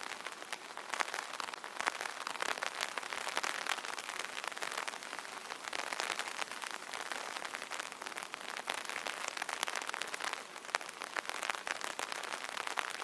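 Light rain drumming on an umbrella canopy: a steady patter of many small drop taps, with fine crackling ticks over a soft wash.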